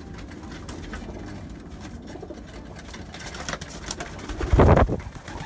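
Racing pigeons cooing in a loft, with scattered small clicks and rustles and one loud, short burst of rustling about four and a half seconds in.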